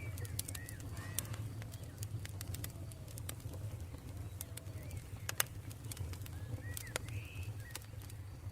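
Campfire crackling with scattered sharp pops, the loudest about five seconds in, over a low steady rumble. Birds call in short chirps now and then.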